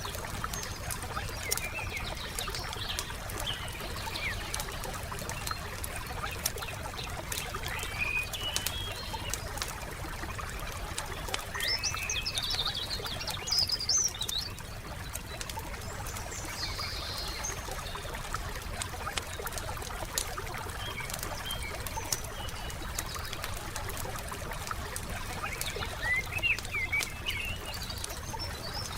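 Wood campfire crackling with frequent sharp pops and snaps over a steady low hiss. Songbirds chirp in short bursts every few seconds, the loudest burst about halfway through.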